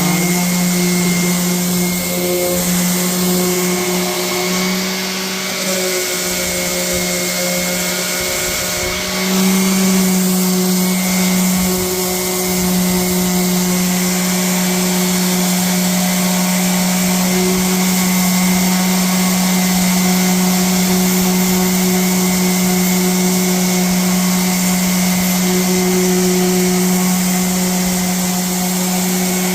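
Bauer random orbital sander running on wood with a shop vacuum pulling dust through its hose: a steady machine hum over a broad hiss, a little louder from about nine seconds in.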